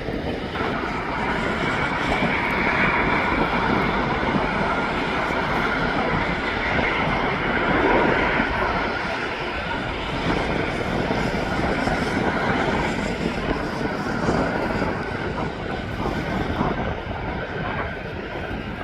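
Jet engines of an Airbus A320-200 airliner running: a steady rush with a whine on top, swelling to its loudest about eight seconds in, then easing off.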